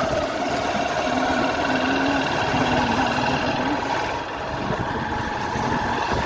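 Motorcycle engine running while the bike is ridden, its pitch shifting a little in short stretches, under a steady rush of noise.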